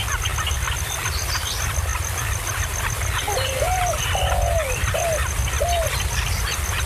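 Bird calls: a phrase of four low rising-and-falling notes repeats about every four seconds. Underneath run many short high chirps and a steady, fast-pulsing high tone.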